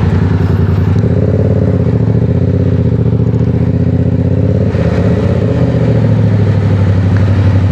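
Sportbike engine running steadily, its pitch shifting slightly about a second in and again near five seconds, and growing a little louder toward the end.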